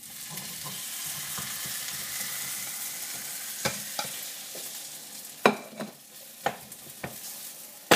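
A potato omelette sliding from a plate into a hot frying pan and sizzling. The sizzle starts suddenly, is loudest for the first few seconds and then fades. From about halfway on come several sharp clacks of the plate and a slotted spatula on the pan.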